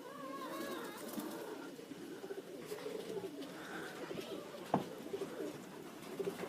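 Domestic pigeons cooing, soft low coos repeating throughout, with a few brief higher chirps near the start and a single sharp click just under five seconds in.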